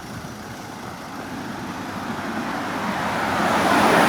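A car passing close by on the road, its noise growing as it approaches and loudest near the end.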